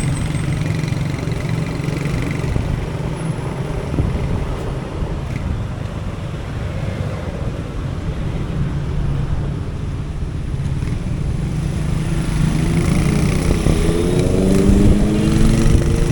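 Motorcycle engine running on the road amid traffic, with steady road noise; in the last few seconds the engine note glides up and down in pitch.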